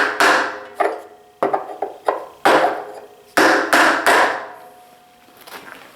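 Hammer blows on a block driving the cutter head of a DeWalt 735 planer out of its bearing, about eight uneven strikes with a short ring after each, stopping a little past halfway.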